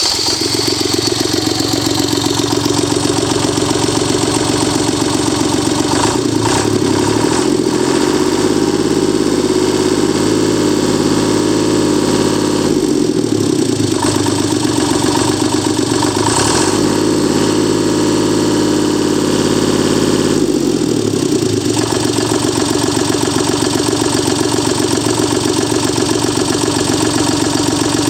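Deutz F3M2011 three-cylinder diesel engine running steadily just after starting, its speed changing a few times between about 6 and 21 seconds in before settling back to a steady run.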